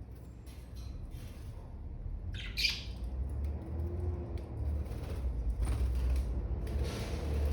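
Budgerigars chirping and squawking in short calls, with one louder squawk about two and a half seconds in, over a low rumble.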